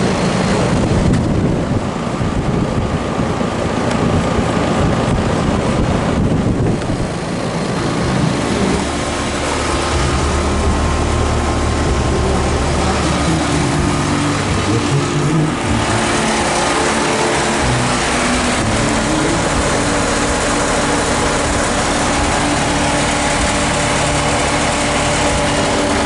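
Outdoor air-conditioner condensing units running: a steady low compressor hum under the rushing of the condenser fans. The hum settles into steadier, clearer tones about eight seconds in.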